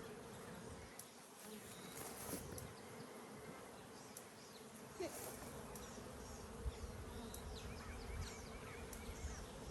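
Honey bees buzzing around an open hive: a faint, steady hum, with a few light clicks.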